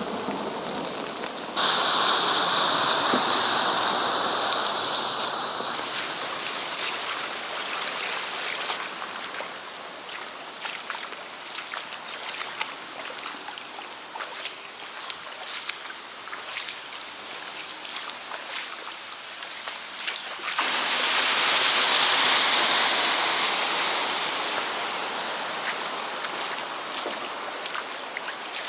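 Rain and rushing water on the street, with many small drips and splashes in the middle stretch. A louder rush starts suddenly about two seconds in and again about twenty seconds in, each slowly fading.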